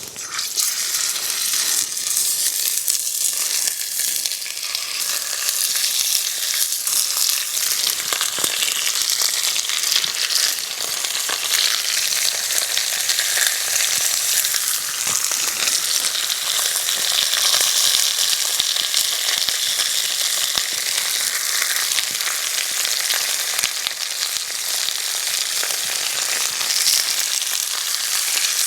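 Food sizzling and frying in a hot pan over an open fire: a dense, steady hiss with fine crackles that sets in suddenly at the start.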